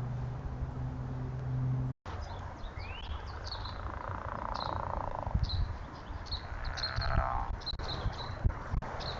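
Small birds chirping: short high chirps repeated every half second or so, with a few quick rising calls, over outdoor background noise. A steady low hum runs until a brief dropout about two seconds in.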